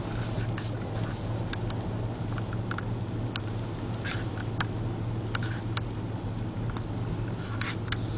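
Strong coastal wind buffeting the camera microphone, a steady low rumble, with scattered sharp ticks and clicks throughout.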